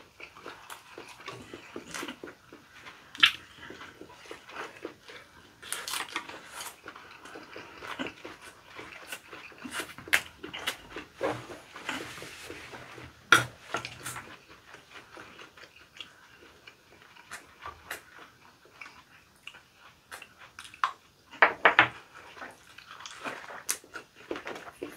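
Close-miked chewing and mouth smacking of two people eating leaf-wrapped rice and side dishes, with scattered clicks of chopsticks and a spoon against bowls. A few sharper, louder clicks stand out, about three seconds in, around thirteen seconds, and a cluster near twenty-two seconds.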